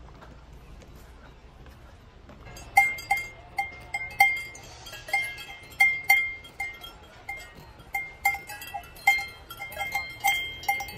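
Livestock neck bells clanking irregularly, from about two and a half seconds in, as the animals move. Several bells of different pitches ring out, with sharp strikes coming about two or three times a second.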